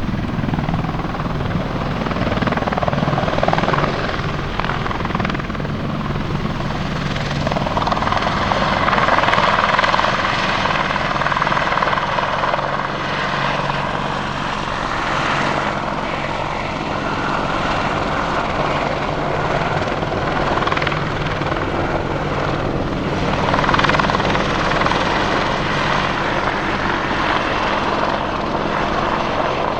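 AH-64D Apache attack helicopter running, its rotor beat and twin turbine engines making a loud, continuous sound. A higher whine swells and fades twice.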